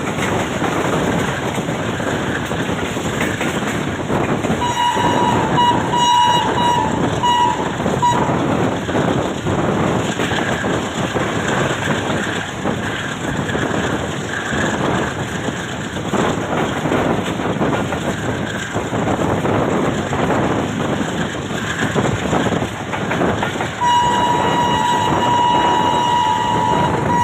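Express passenger train running at speed, a steady rumble and rattle of wheels on the track. The locomotive horn sounds a series of short blasts about five seconds in, and one long blast near the end.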